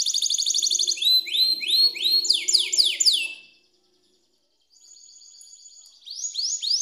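Canary singing: a fast trill, then a run of repeated sweeping whistled notes, a short break about halfway, a quieter steady phrase, and repeated rising notes again near the end.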